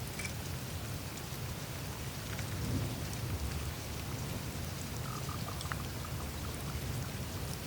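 Melting glacier ice: meltwater trickling and dripping over and through the ice surface, a steady watery wash with a low rumble underneath and scattered small drips and clicks.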